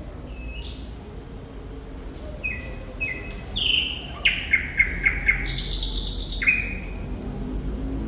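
Thrush nightingale singing: scattered whistled notes, then a run of sharp repeated notes, a dense buzzing rattle and a falling slur near the end.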